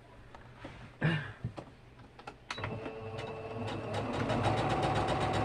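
Sewing machine starting up about two and a half seconds in and stitching at a fast, even rate, getting louder and steadier about a second later.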